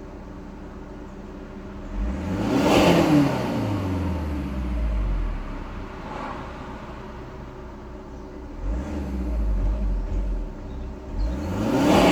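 VW Golf 6 GTD's 2.0 TDI CFGB four-cylinder diesel revved through its exhaust during a particulate filter regeneration: idling, then a sharp rev about two seconds in that falls slowly back to idle, a shorter blip around nine seconds, and another rev rising near the end.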